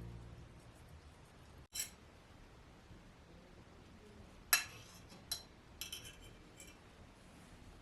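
Background music fading out, then a few light, sharp clinks and clicks of small hard objects being handled: one about two seconds in, a louder one halfway through, and a quick cluster soon after.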